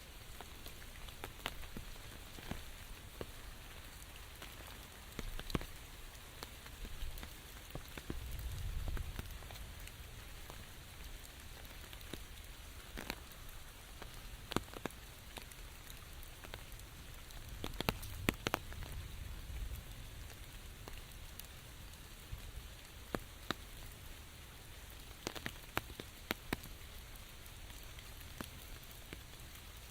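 Steady rain falling in a forest, with scattered close drips ticking sharply through it. A low rumble swells briefly twice, about nine and nineteen seconds in.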